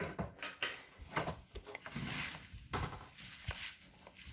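Irregular light knocks, scuffs and rustling, like footsteps and a handheld camera being handled while someone moves around.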